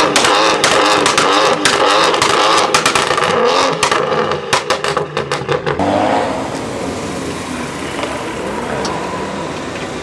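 Car engine revving hard with its pitch rising and falling, with rapid crackling through it. About six seconds in it drops away to quieter, steadier engine running.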